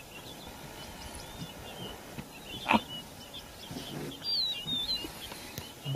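Birds chirping and whistling in short high calls, with a single sharp click a little under three seconds in.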